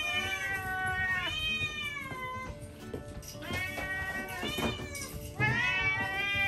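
Cats meowing again and again in long, drawn-out calls, one after another, begging for their dinner as it is being prepared.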